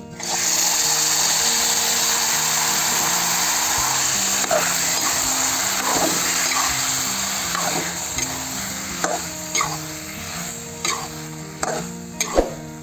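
Cooked grated carrots sizzling loudly in hot ghee in a kadhai. The hiss starts suddenly and slowly dies down, and from about four seconds in a spoon scrapes and stirs against the pan. Background music plays throughout.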